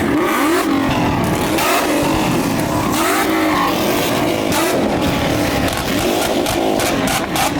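Car engines revving hard again and again, the pitch sweeping up and dropping back repeatedly, with several revs overlapping.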